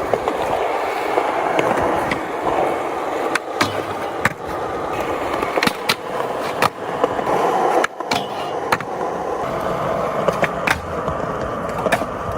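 Skateboard wheels rolling on pavement, with sharp clacks of the board popping and landing, about once a second from roughly three seconds in.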